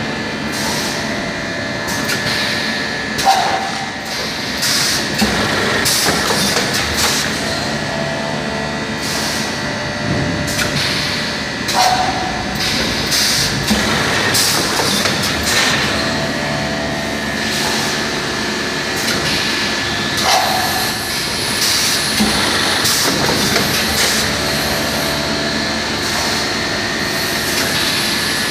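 Automatic vacuum packaging machine for white cheese running: continuous mechanical clatter and knocking with a faint steady whine, and a work cycle that repeats about every eight and a half seconds.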